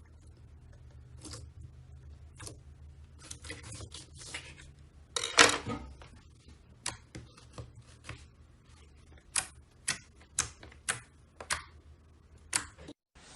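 Slime being squeezed and poked, giving off sharp popping clicks as air pockets burst. There is a loud crackling burst about halfway through, then a run of single pops about twice a second near the end.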